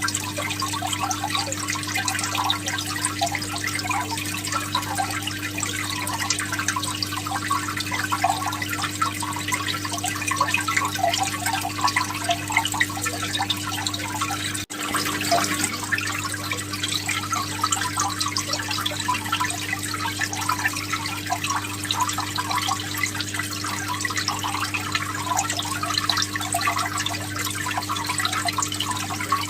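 Aquarium water splashing and trickling steadily over a constant low electrical hum, as from a tank's filter or pump outflow. A momentary break about halfway through.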